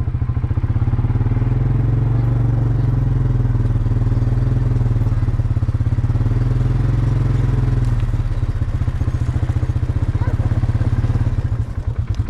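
Small engine running steadily, loud and close, its note turning rougher and more pulsing near the end.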